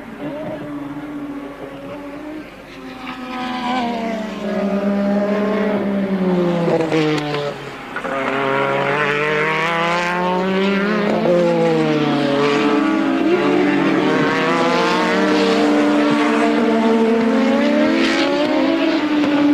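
Engines of several 1983 Formula 1 cars racing close together, their notes overlapping. Pitches fall and rise again and again as the cars brake, shift and accelerate, and the sound gets louder about eight seconds in.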